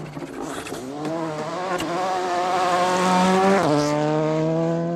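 Rally car engine at high revs, climbing steadily in pitch and getting louder as the car accelerates, then dropping suddenly in pitch about three and a half seconds in and running on steadily.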